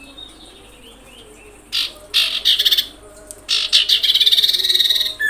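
Common iora calling: two loud, very rapid chattering trills, the second longer than the first, ending in a falling whistle. Fainter, high falling notes come before them.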